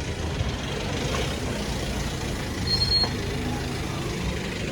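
Street traffic: a motor vehicle's engine rumbling close by, with a brief high squeal about three seconds in.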